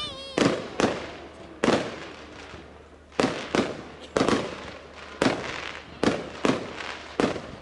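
Fireworks going off in quick, irregular succession: about a dozen sharp bangs, each trailing off briefly.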